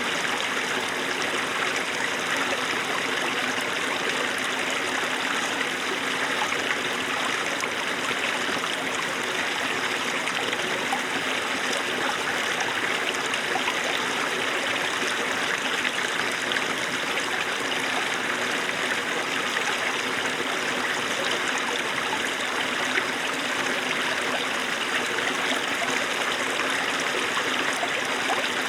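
Small snowmelt-fed mountain stream running over stones, a steady babbling and trickling with no change.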